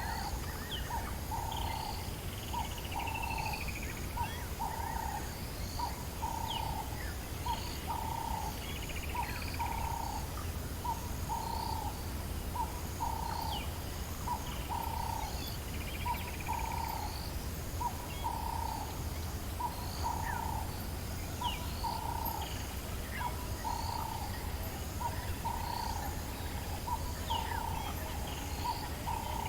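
Dawn chorus in the African bush. One animal repeats a short, low call about once a second, other birds chirp over it, and a faint high insect chorus pulses in the background.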